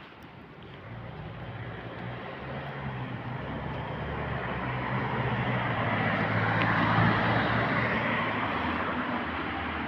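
A passing vehicle: a steady low engine hum with broad rushing noise that grows louder, is loudest about seven seconds in, then slowly eases.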